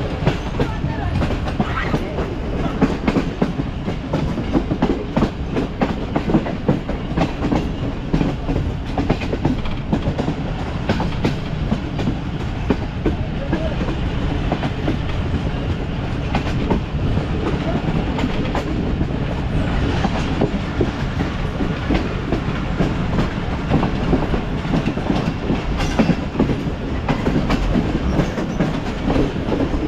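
Passenger train running along the track: a steady rumble with the wheels clicking over rail joints.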